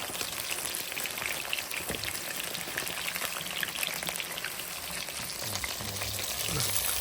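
Marinated chicken pieces sizzling and crackling as they fry in a pan, a steady sizzle with fine pops throughout.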